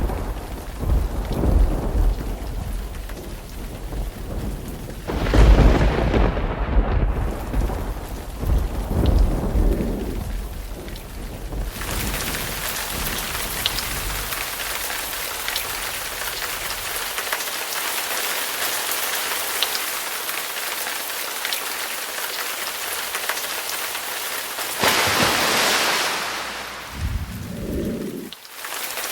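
Thunderstorm: heavy rain falling steadily with deep rumbles of thunder rolling through the first ten seconds or so. After that the rain hisses on evenly with scattered drop ticks, swelling briefly near the end with a short low rumble.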